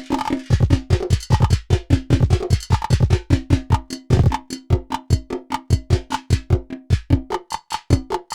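Nord Drum 3P drum synthesizer playing a fast sequenced rhythm pattern on a preset kit: deep kick thumps, short pitched tom-like hits and bright clicky percussion, several strokes a second.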